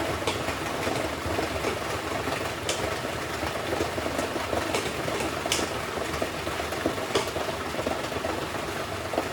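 LG WM6700HBA front-load washing machine running with a steady wash noise, with a few sharp clicks scattered through it.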